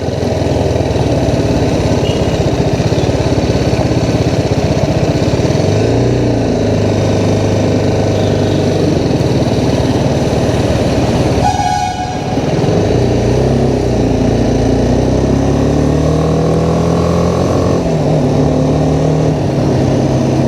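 BMW G310R's single-cylinder engine running at road speed, its pitch stepping up and down several times as the throttle and gears change, with a brief dip about halfway through.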